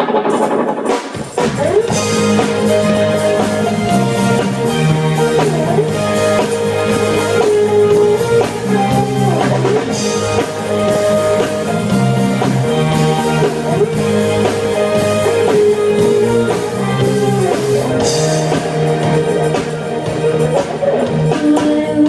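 Instrumental rock intro: guitars over a drum kit, with a cymbal crash about every eight seconds. The music comes in fully about a second in.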